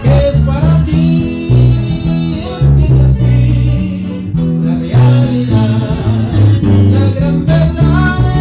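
Live trio music: guitars with a bass line, and voices singing over them.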